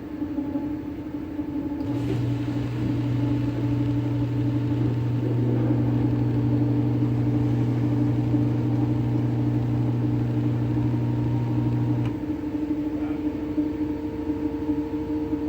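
Washing machine running on a wobbling spin, giving a steady mechanical hum and rumble. A deeper, louder hum comes in about two seconds in and cuts off suddenly near twelve seconds.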